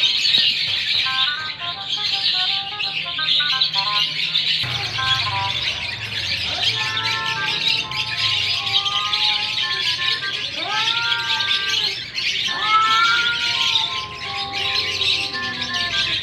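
Two cats yowling at each other in a standoff: long wavering cries that rise and fall, loudest about ten and thirteen seconds in. Under them, a steady high chatter runs throughout, and a short run of stepped musical notes plays in the first few seconds.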